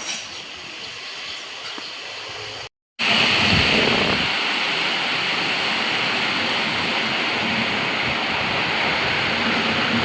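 Heavy rain pouring with a steady hiss. It cuts out for a moment near three seconds in, then comes back louder.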